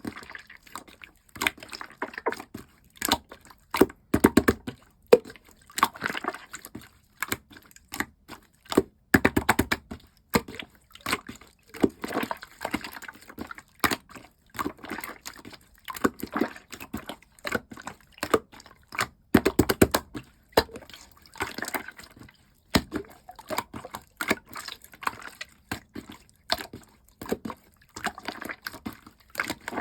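Slime being squeezed, stretched and pressed by hand, giving a steady stream of wet squelches and sharp sticky pops and clicks at an irregular pace.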